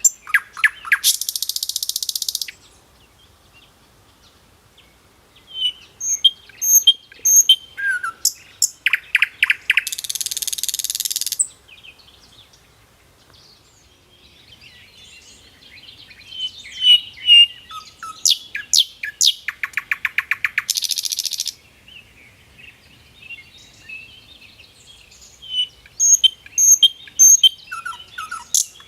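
Songbird singing: each song opens with short high chirps, runs into a rapid trill and ends in a buzzy stretch about a second and a half long. The same song comes again about every ten seconds, with quiet gaps between.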